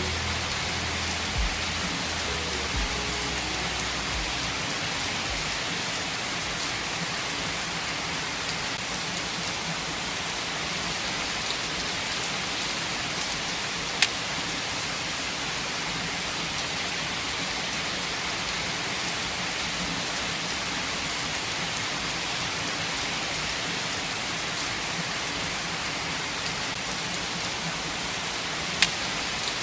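Steady, even rain, a fine hiss of many drops, with two sharp single clicks: one about halfway through and one near the end.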